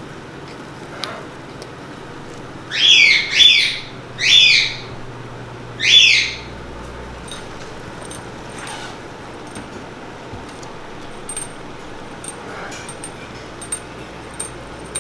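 A parrot squawking four times in quick succession, loud harsh calls that each rise and fall in pitch, followed by a few faint clicks.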